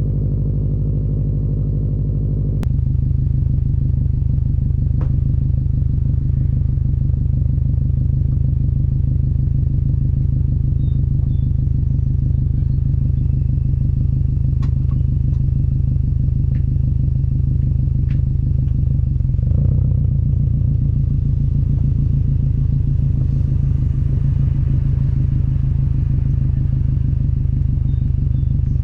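Subaru WRX's EJ255 turbocharged flat-four running through an Invidia N1 dual catback exhaust, a steady low rumble recorded at the rear bumper while cruising. The note steps up sharply about three seconds in and shifts briefly again around twenty seconds in.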